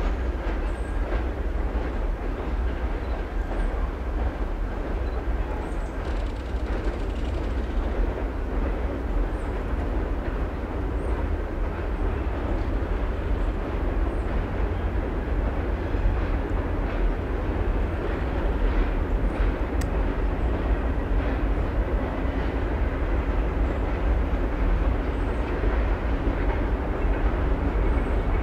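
Passenger train rolling across a girder bridge: a steady rumble of wheels on rails, with faint scattered clicks.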